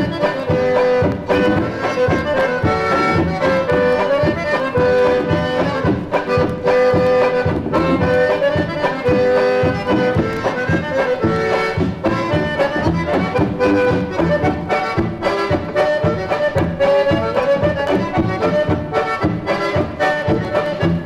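Recording of a Wisconsin polka band playing a lively polka, the melody carried in held and repeated notes over a steady oom-pah beat.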